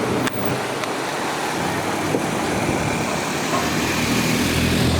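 Steady outdoor noise with a motor vehicle's engine drawing close. Its low rumble grows louder over the last second or so.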